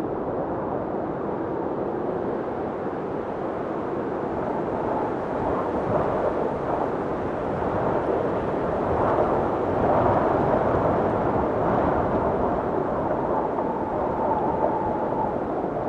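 Blizzard wind blowing hard: a steady rushing roar that swells in gusts around the middle, with a faint high whistle coming in near the end.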